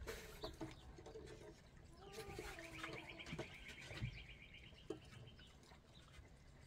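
Birds calling faintly, with a fast high trill starting about two seconds in and lasting nearly three seconds, over lower calls. A single thump about four seconds in.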